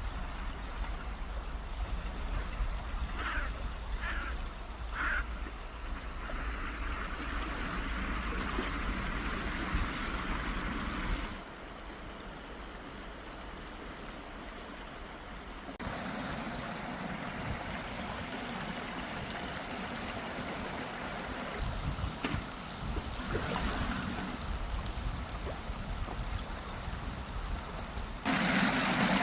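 Steady rushing water noise outdoors. Its character changes abruptly about 11 seconds in, again about 16 seconds in, and once more near the end.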